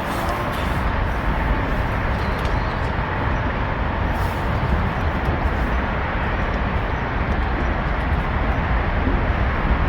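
Strong wind blowing over the microphone: a steady rushing noise with a heavy low rumble from the gusts buffeting it.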